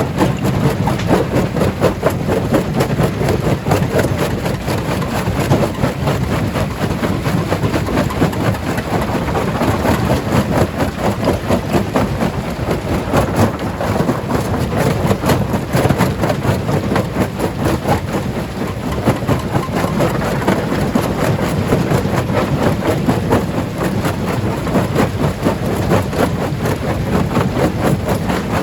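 Stone crusher running, a steady heavy machine hum under dense, rapid knocking and rattling of rock being crushed.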